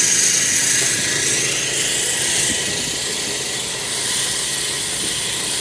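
Steady hissing, grinding noise from road-work machinery, loudest in the first second or so and easing slightly after.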